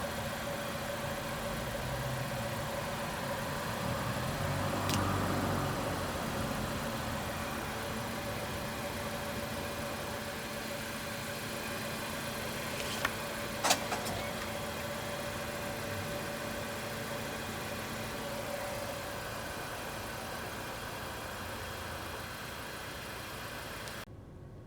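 Car engine idling steadily at a parking-lot ticket machine, with a couple of sharp clicks about halfway through.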